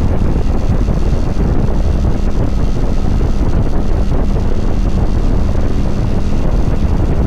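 Heavy wind buffeting the microphone of a motorcycle at road speed, with the steady drone of a Kawasaki Vulcan 900's V-twin engine underneath.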